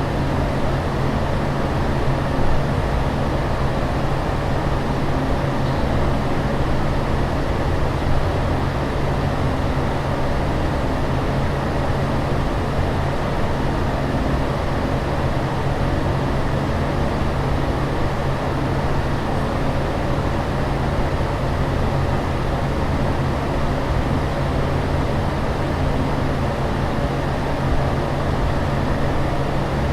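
Steady in-flight aircraft cabin noise: a constant low hum under an even wash of fan and air noise that does not change.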